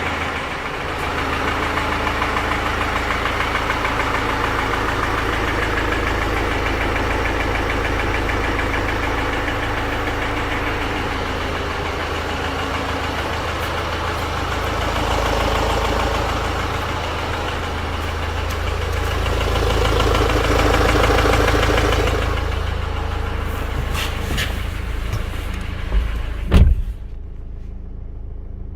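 BMW X1 F48 xDrive18d's 2.0-litre four-cylinder diesel running with a rapid metallic knocking and ticking from the bottom end of the engine, which was diagnosed as a broken piston. The engine swells louder twice. Near the end there are a few sharp thumps and the engine noise drops away.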